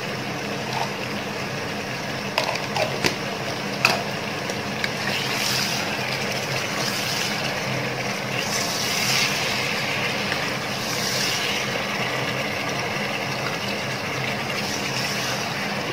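Chicken pieces sizzling in hot mustard oil in an open pressure cooker while a wooden spatula stirs and turns them. A few sharp knocks of the spatula against the pot come in the first few seconds, and the sizzle swells several times as the pieces are turned. A steady low hum from the induction cooktop runs underneath.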